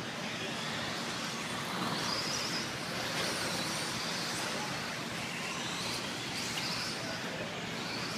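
Electric RC stock trucks running on the race track: faint high motor whines rising and falling as they accelerate and brake, over a steady background hiss.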